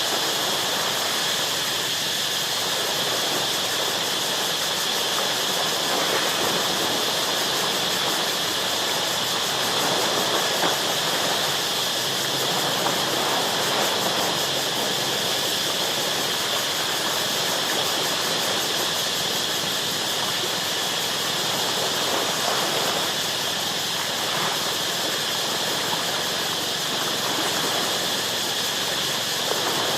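Ocean surf washing continuously against shoreline rocks, a steady hissing rush with no clear lulls between waves. Over it runs a steady high-pitched drone of jungle insects.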